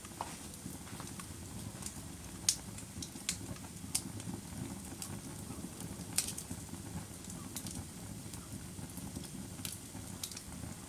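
Wood fire burning with a steady low rumble, crackling with irregular sharp pops and snaps, the loudest about two and a half, four and six seconds in.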